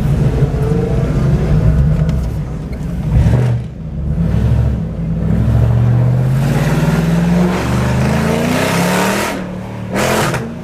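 Car engine running and revving, its pitch rising and falling; it dips about a third of the way in, then climbs steadily over a couple of seconds past the middle.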